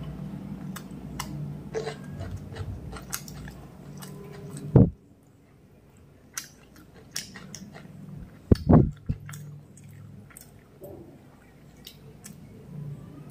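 Close-miked chewing of mutton biryani, with wet mouth clicks and smacks. Two louder dull thumps come about five and nine seconds in.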